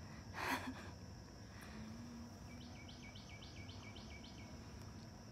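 Outdoor ambience: a bird calls a quick run of about nine short rising chirps, about five a second, over a steady high-pitched insect buzz. A brief breathy whoosh comes about half a second in.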